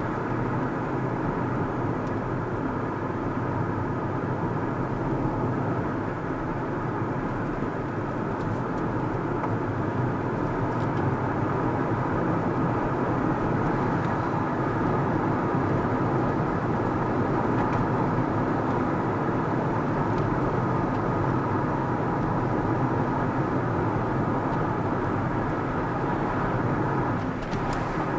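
Car driving along the road, with a steady blend of engine and tyre noise that dips briefly near the end.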